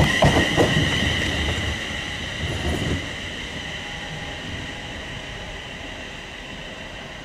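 Passenger train passing with a steady high-pitched squeal and a few sharp clicks of wheels over rail joints near the start. The train fades away over the first few seconds, leaving quieter rail noise.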